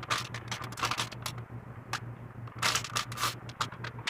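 Hands handling small objects at close range: irregular sharp clicks, scratches and rustling, with a steady low hum underneath.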